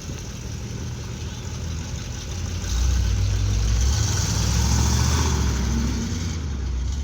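A Chevrolet's engine rumbling as the car drives in, growing louder about three seconds in and easing off near the end.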